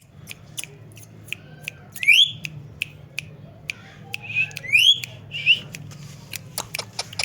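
Pet parrot whistling: two loud rising whistles, about two seconds in and again near five seconds, among many short sharp chirps and clicks.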